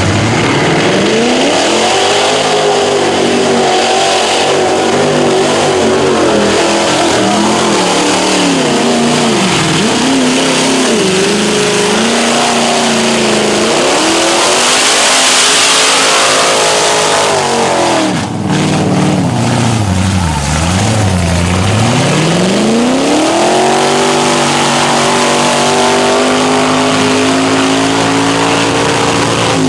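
Lifted mud-bog truck's high-horsepower engine revving hard, its pitch swinging up and down as the throttle is worked. About halfway a loud rushing noise rises over it, then the revs drop sharply twice and climb back to a steady high pitch held near the end.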